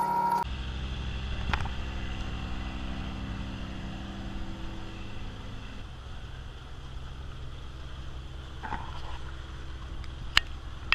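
Boat engine running at a steady low drone, with the rush of wind and water over it. Two sharp clicks, one early and one near the end.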